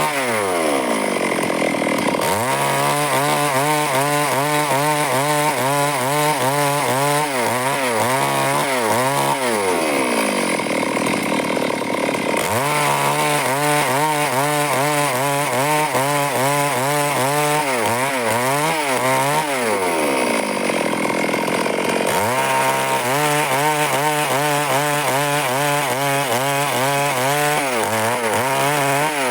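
Stihl chainsaw running at high revs while cutting wood, its engine pitch wavering up and down under the load of the cut. Twice the revs fall off and then pick back up again.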